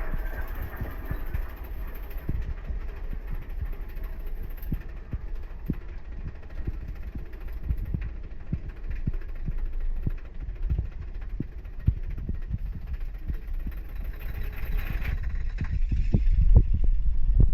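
Mine-train roller coaster cars running along the track: a steady deep rumble with irregular clacks from the wheels, building with a rush of wind near the end as the train picks up speed.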